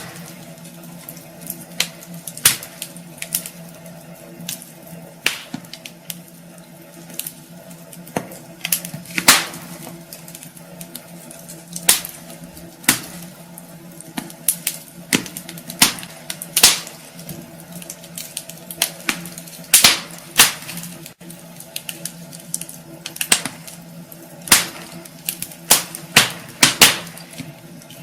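Wood fire burning in a fireplace, crackling and popping irregularly with sharp snaps about one or two a second over a steady low background.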